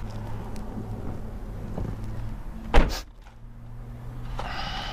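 Low steady hum of a car's V8 engine, then a car door shuts with one loud thud near the middle. A faint pitched tone sounds near the end.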